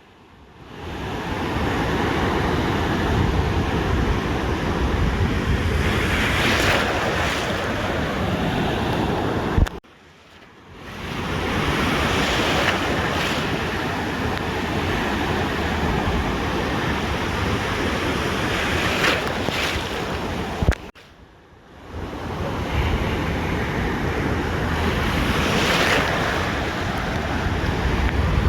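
Ocean surf breaking on a beach: a continuous wash of water that swells with each breaking wave every few seconds, with heavy wind rumble on the microphone. The sound cuts out abruptly twice, about 10 and 21 seconds in, each time just after a click, and fades back in about a second later.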